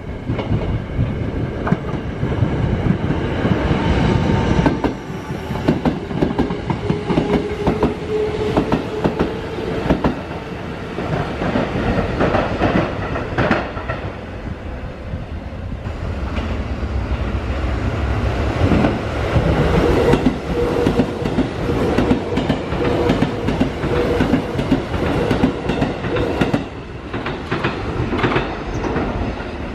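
Electric commuter train running past on the Sanyo Electric Railway line, its wheels clacking over the rail joints in quick repeated beats. A steady whine comes in a few seconds in and again in the second half.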